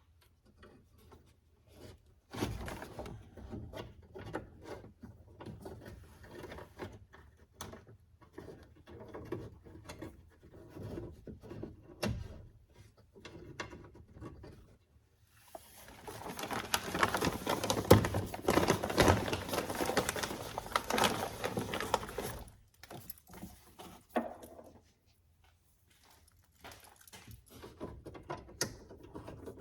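Hands working with tools and metal parts: irregular clicks, knocks, scrapes and rattles, with a louder, busier stretch of rattling and scraping in the middle.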